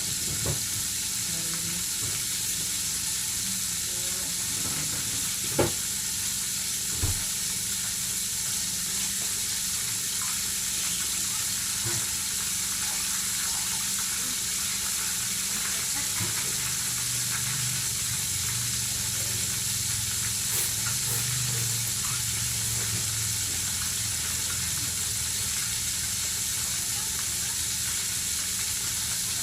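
Chicken pieces frying in hot oil, a steady sizzle, with a couple of sharp knocks about six and seven seconds in.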